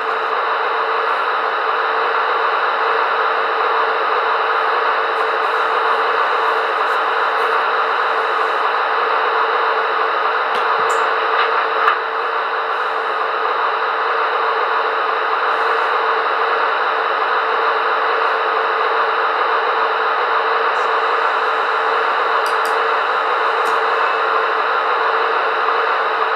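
Diesel engine sound effect from the sound decoder in a Märklin 37605 model of the DB VT 11.5 diesel train, a steady noisy hum with one held tone, played through the model's small speaker. A short click about twelve seconds in.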